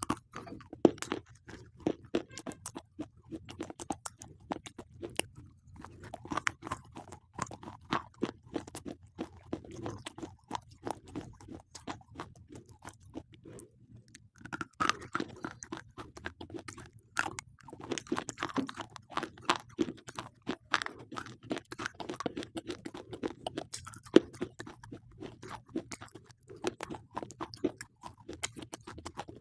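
Slate pencils being bitten and chewed close to the microphone: dense, crackly crunching, with a short lull about halfway through.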